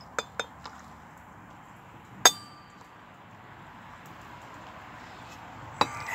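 Drinking vessels and a vodka bottle clinking together as the last of the vodka is shared out into hot chocolate cocktails. Three light clicks come first, then one loud ringing clink about two seconds in, and another clink near the end.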